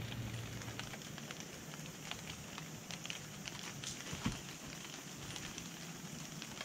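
Rain pattering and dripping in wet bush: a steady hiss dotted with many small, irregular ticks of falling drops.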